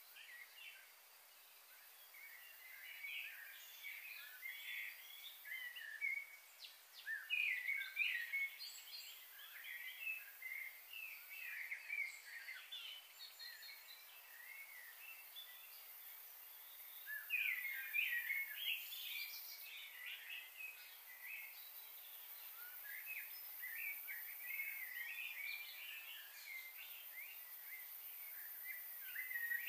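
Birds chirping and chattering in quick flurries, busiest about six to nine seconds in, again past the middle, and near the end, over a faint steady hiss.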